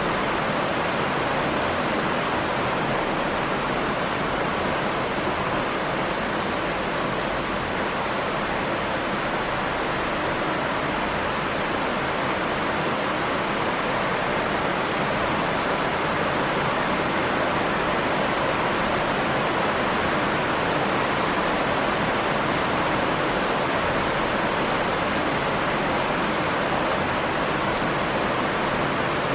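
Rain falling steadily: an even, unbroken noise with no separate drops or thunder standing out.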